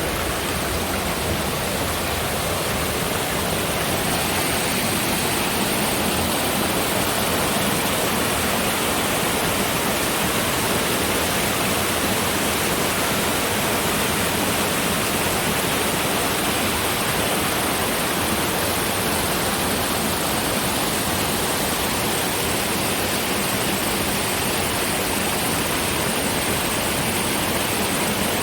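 Steady rush of whitewater from the Green River, loud and unbroken.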